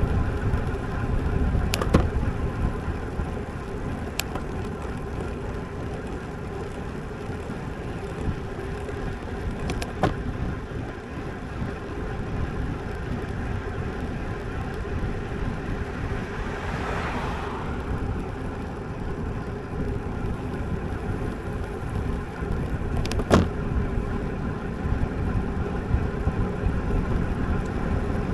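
Road bike riding along, heard through a bike-mounted action camera: a steady rush of wind and tyre hum, with a few sharp knocks from bumps in the road. A brief swell of hiss comes about two-thirds of the way in.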